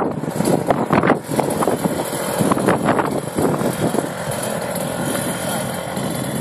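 A motor vehicle running loudly, uneven with surges for the first few seconds, then steadier.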